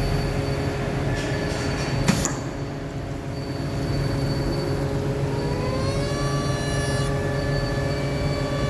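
Factory machinery running steadily with a low hum and several held tones, a sharp knock about two seconds in, and a whine that rises and then holds from about halfway through.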